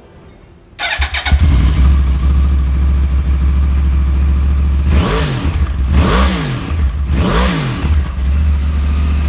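2011 Yamaha R1's crossplane-crank inline-four, breathing through Akrapovic carbon exhausts, starts about a second in and idles. Around halfway it is revved three times in quick succession, each rev rising and falling in pitch, then it settles back to idle.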